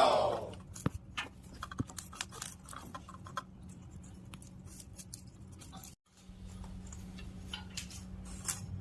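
The tail of a loud parrot screech sliding down in pitch in the first half second, then scattered small clicks and taps of parrots pecking and chewing at vegetables.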